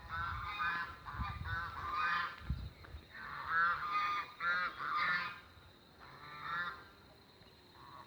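Bird honking calls, repeated in several quick bursts and dying away about seven seconds in, over a faint steady high tone.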